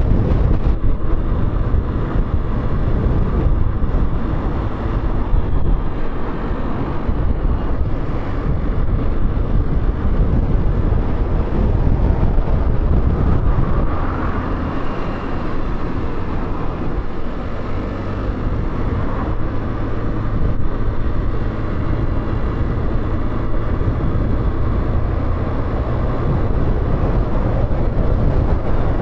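Motorcycle on the move: steady wind rush on the microphone with the engine running underneath, level throughout with small rises and dips.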